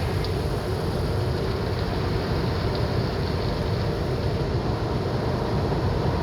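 Automatic tunnel car wash running, heard from inside the car: a steady, even rushing of water spray and machinery on the body.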